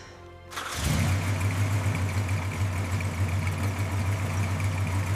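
An engine comes in about a second in and idles steadily with a low, even hum.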